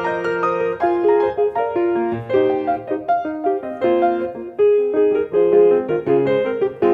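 A piano being played: a quick-moving melody of several notes a second over lower held notes and chords.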